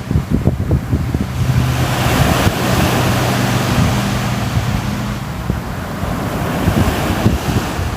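Sea waves breaking and washing in, with wind buffeting the microphone. One wave swells about a second in and eases off around five seconds.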